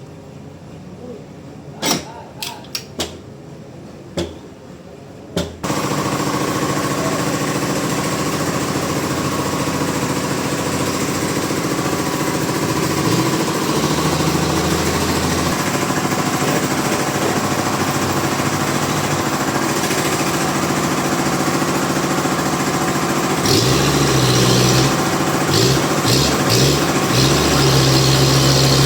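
A few sharp knocks, then about five seconds in sawmill machinery starts abruptly and runs with a loud, steady noise. Near the end it grows louder, with a low hum and a stuttering pulse.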